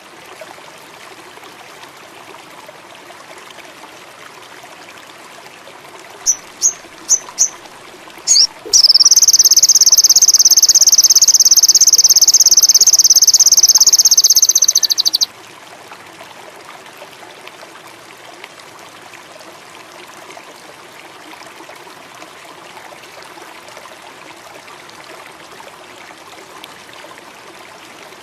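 Indigo flycatcher (sogon indigo) lure recording: four short, sharp high chirps about six seconds in, then a loud, fast, high trill held for about six seconds that cuts off abruptly. A steady water-like hiss, like a running stream, runs underneath.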